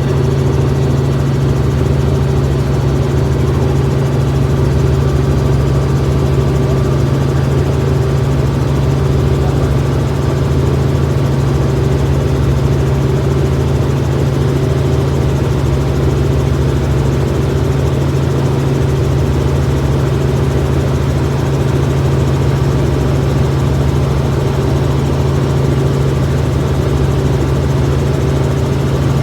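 Helicopter's steady loud drone of engine and rotor, heard from inside the cabin in flight.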